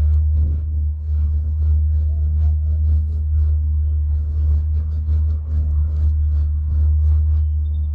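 Steady low rumble throughout, with faint voices and scattered sounds of activity above it.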